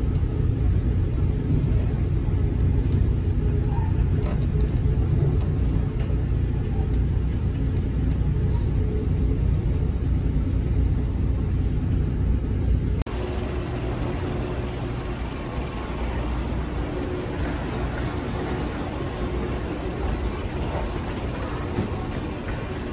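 Amtrak Northeast Regional train running, a steady low rumble heard inside the passenger car. About thirteen seconds in it cuts to the quieter, steady noise of an underground station platform beside the stopped train, with a faint hum.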